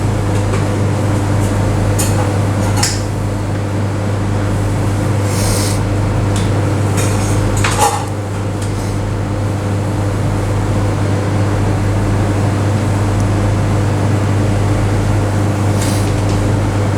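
Steady machine hum, typical of air conditioning, with scattered light clatter and rustling of sandwich preparation at a counter.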